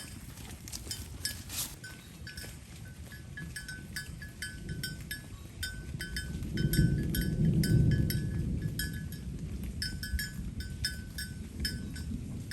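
A cow's neck bell clinking in short, irregular strikes as the cattle move and feed. A louder low sound swells up for a couple of seconds around the middle.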